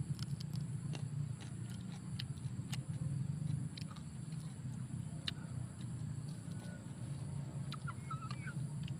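Scattered crunchy clicks of chewing fried sparrow, over a steady low hum and a constant high insect drone, with a brief bird chirp about eight seconds in.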